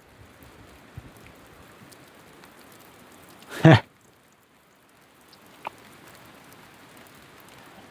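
Steady rain falling, a faint even hiss. About halfway through, one short loud vocal sound from a person, like a throat-clear or grunt.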